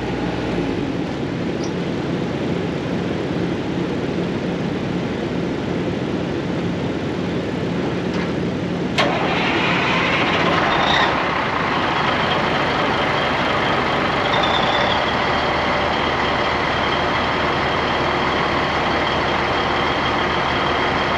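Semi truck's 400-horsepower Caterpillar diesel being started after a steady stretch of engine hum: a sharp click about nine seconds in, a short louder burst as it catches, then it settles into a steady idle.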